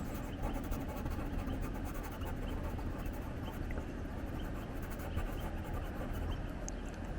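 Wind buffeting the microphone in a steady low rumble, with the faint dry scratching of a Museum Aquarelle watercolor pencil on synthetic Yupo paper and a few faint bird chirps.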